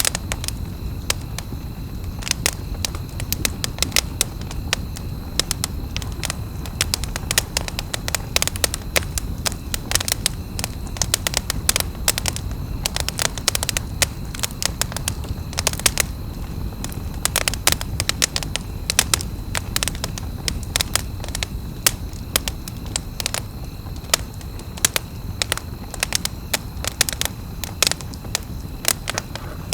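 Wood campfire crackling and popping in dense, irregular snaps over a steady low rumble of the burning fire.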